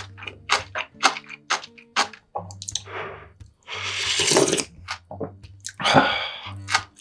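Close-miked eating: quick wet chewing and mouth clicks, followed by longer noisy wet sounds about halfway through and again near the end, typical of slurping a spicy soup or mixing bibimbap.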